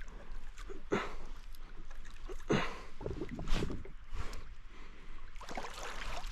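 Water splashing and sloshing against a kayak in a run of short, irregular splashes.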